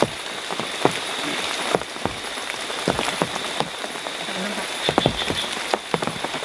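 Heavy rain falling steadily as a dense hiss, with many loud separate drops striking close by every fraction of a second.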